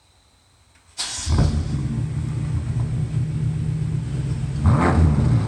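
BMW F10 M5's twin-turbo V8, exhaust with the muffler deleted, starting about a second in with a sudden loud flare, then settling into a steady idle. A short rev near the end.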